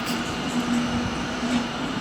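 Electric multiple-unit train at a station platform, giving a steady low hum over a constant background rumble of the station.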